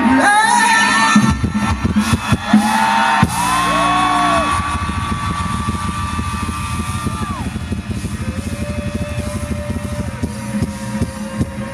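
Live rock band playing: long held lead notes that bend in pitch over a fast, dense drum beat.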